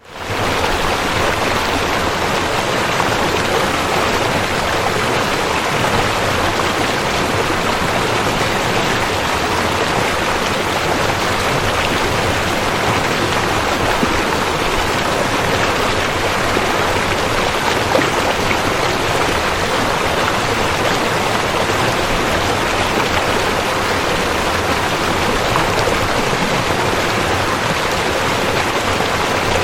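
River water rushing steadily, fading in at the very start.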